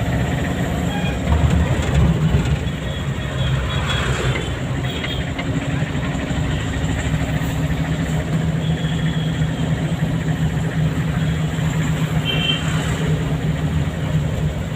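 Car being driven: the engine running steadily with road noise.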